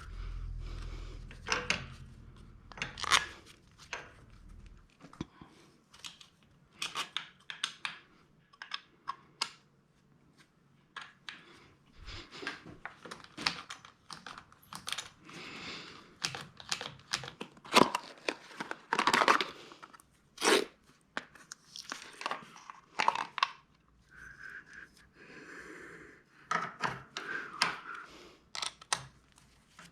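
Workshop handling noises: irregular clicks, clinks and short rustling or scraping as tools and parts are picked up and worked on. A low hum runs under the first few seconds and stops about five seconds in.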